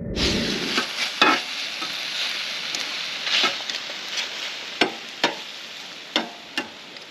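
Chicken pieces sizzling on the hot griddle plate of a Weber Traveller gas barbecue while being turned with metal tongs and a spatula, which scrape and clack sharply against the plate several times. The sizzle eases off toward the end.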